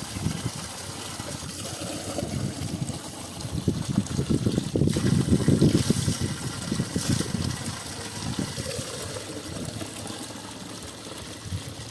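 Water splashing and gushing in an uneven wash of sound, swelling louder for a couple of seconds midway.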